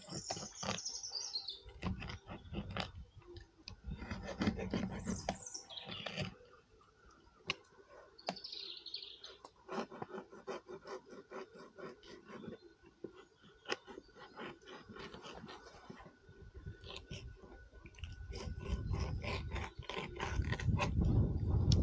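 A few short, high bird chirps falling in pitch, over irregular clicking and scraping, with a low rumble building over the last few seconds.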